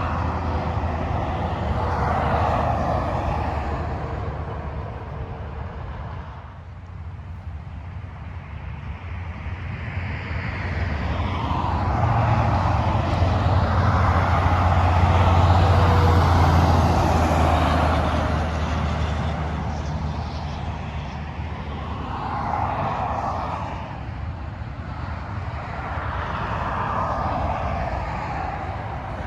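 Freeway traffic passing at speed: tyre roar swells and fades as vehicles go by one after another. The loudest pass comes about halfway through and carries a deep engine drone, like a heavy truck.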